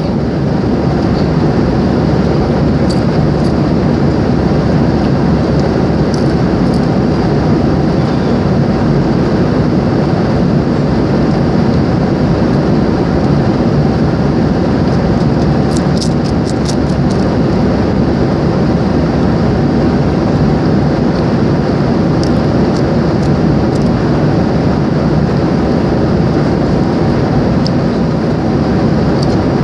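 Airliner cabin noise: the steady, even drone of engines and airflow heard from inside the cabin, with a few faint clicks.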